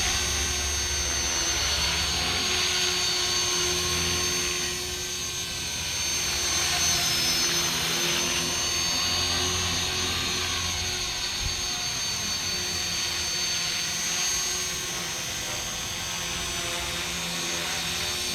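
Radio-controlled model helicopter in flight, its motor and rotor giving a steady high whine whose pitch wavers slightly as it is flown.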